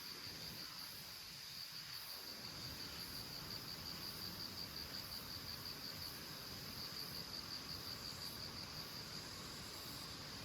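An insect singing, faint: a high, steady trill that pulses about five times a second.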